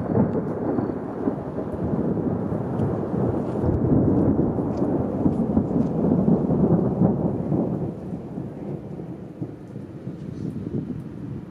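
Rolling thunder rumbling over steady rain during a night thunderstorm. It holds strong for about eight seconds, then fades, leaving the rain.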